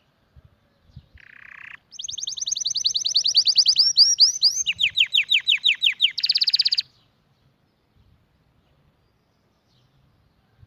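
Domestic canary singing one song phrase of fast trills: a short buzzy note, then a long run of rapid high notes dropping to a lower run, and a final fast buzzy trill that stops abruptly.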